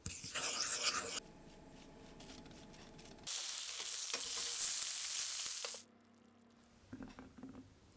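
Close-up cooking sounds in quick cuts: a wooden spoon stirring oil and spices in a bowl for about a second, then courgette halves sizzling in an oiled frying pan, the loudest part, which cuts off suddenly, followed by a quiet stretch with a few soft clicks.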